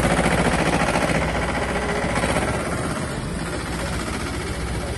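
A heavy vehicle's engine running close by with a fast, even pulsing, louder for the first two and a half seconds and then easing off.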